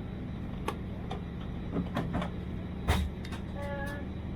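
Airbus A320 cabin hum, steady and low. Several sharp clicks and knocks sound over it, the loudest about three seconds in, and a short pitched tone follows soon after.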